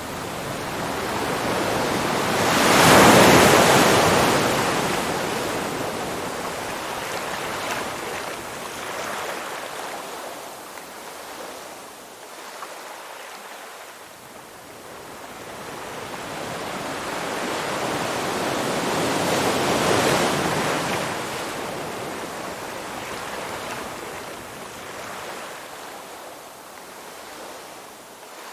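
Ocean waves breaking and washing up a shore. Two big swells peak about three seconds in and again near twenty seconds, each building up and then fading away slowly.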